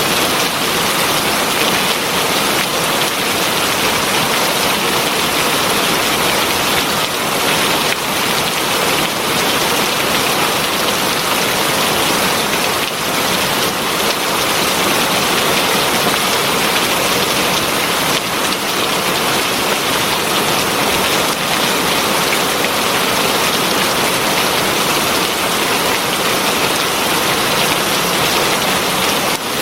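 Heavy rain falling steadily on a surface, a dense even hiss of drops.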